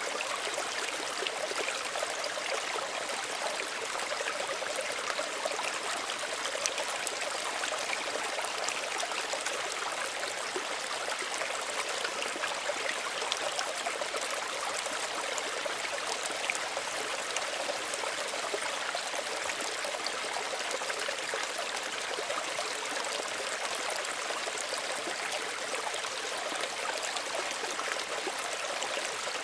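Small stream running steadily over stones, an even babble of water with many small trickles and splashes.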